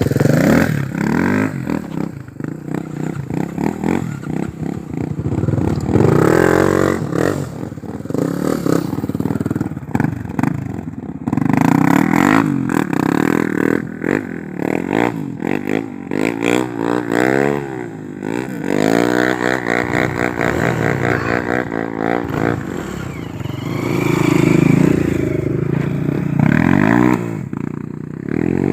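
Single-cylinder four-stroke trail motorcycle engine under way on a dirt trail, its revs rising and falling over and over as the throttle is opened and closed through the ride.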